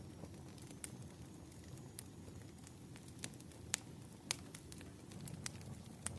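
Wood fire crackling: a steady low rumble of burning logs with scattered sharp pops, about one a second, the strongest between three and a half and four and a half seconds in.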